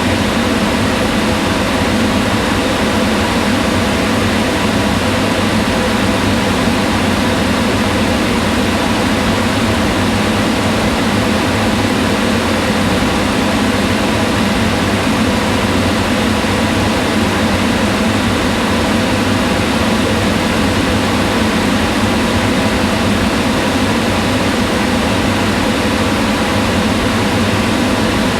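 Kitchen range hood extractor fan running steadily: a continuous whirring rush of air with a faint hum.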